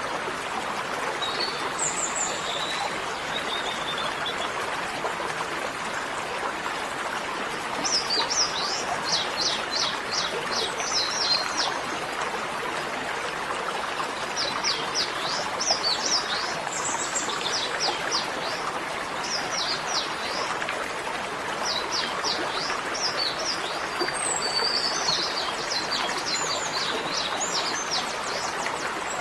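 Steady rushing of running water with small birds chirping over it in quick repeated series, the chirping busiest in the second half.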